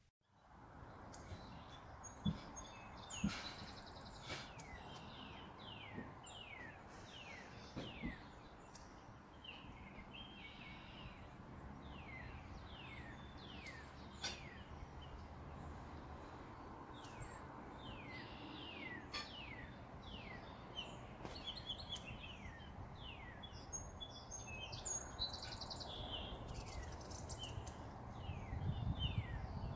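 Wild songbirds calling over and over, each call a quick downward sweep in pitch, over a steady outdoor background hiss, with a few sharp knocks in the first few seconds and once around the middle.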